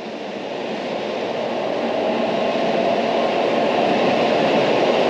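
Tokaido Shinkansen bullet train moving along the station platform, a steady noise growing steadily louder.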